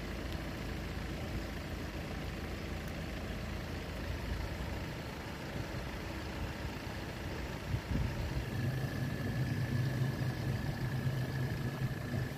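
Vehicle engine running steadily at idle. About eight seconds in, a louder low engine hum joins with a thin, steady high whine.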